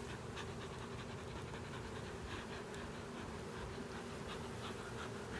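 Steady hum of a honeybee colony around an opened hive, the bees stirred up by the inspection, with a few faint clicks.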